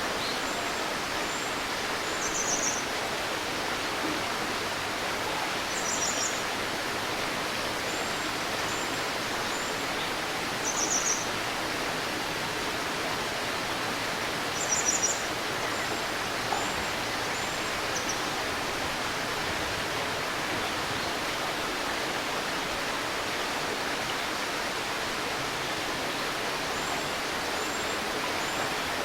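Small stream babbling steadily, with birds calling high overhead: short trilled phrases about every four seconds during the first half and soft brief whistles between, quieter after the middle until a few whistles near the end.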